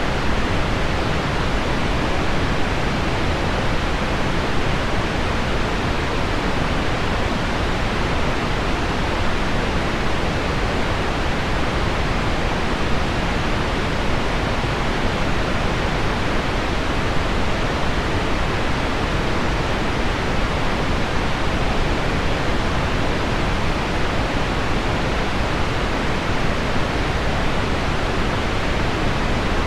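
Heavy rain on window glass blended with deep pink noise: an even, unbroken hiss weighted toward the low end, with no separate drops standing out.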